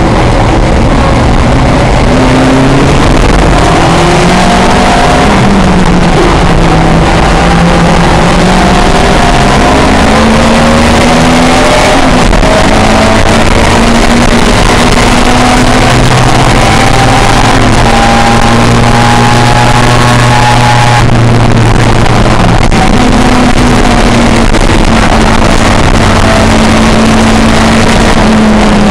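A pre-1966 touring car's engine running hard under racing. Its pitch rises and falls as the driver accelerates, lifts and changes gear, with a sudden drop about two-thirds of the way through.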